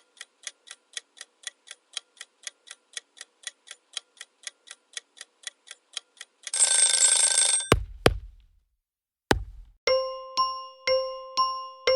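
Countdown-timer sound effect: a clock ticking about four times a second for six seconds, then a ringing bell for about a second as the time runs out. A few sharp hits follow, then a repeating chime begins near the end.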